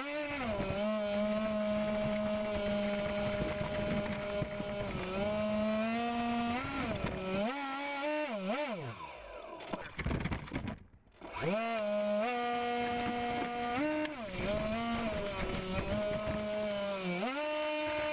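RC airboat's motor and propeller running, the pitch rising and falling as the throttle is worked up and down. About ten seconds in it winds down almost to nothing, then spins back up.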